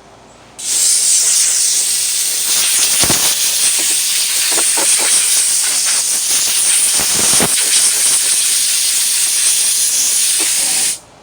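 Compressed-air blow gun on an air hose blowing a loud, steady hiss, as for clearing sanding dust off a body panel. It starts abruptly about half a second in and cuts off suddenly near the end.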